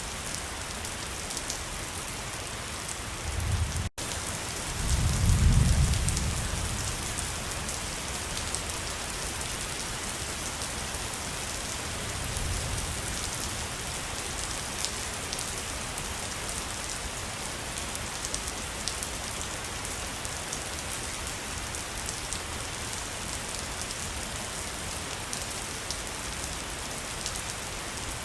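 Waterfall: a steady, even rush of falling water. A low rumble rises and fades about four to seven seconds in and is the loudest part, with a brief drop-out to silence just before it and a weaker rumble near the middle.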